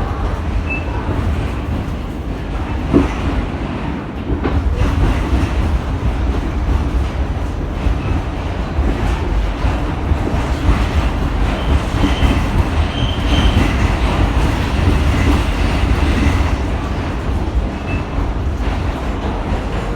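New York City subway train running: a steady heavy rumble of wheels on track, with a sharp knock about three seconds in and a few brief, faint high squeals.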